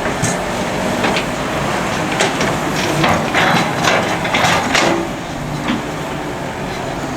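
Excavator working: a steady engine drone with a quick run of metallic clanks and knocks from about two to five seconds in.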